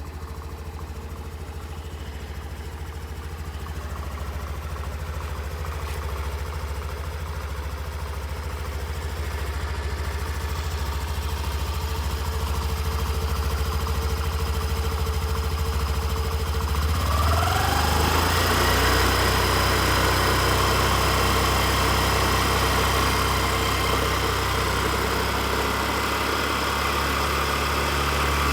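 Honda Activa 6G scooter's single-cylinder four-stroke engine idling steadily; about two-thirds of the way through a rising whine comes in as the engine speed picks up, and it then holds at the higher, slightly louder note.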